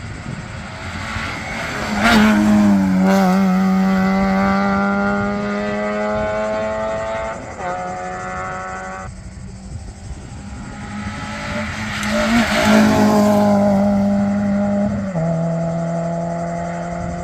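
Rally car engines at speed passing close by, twice. Each pass swells to a loud peak, then the engine note drops in pitch as the car goes by and holds steady at high revs.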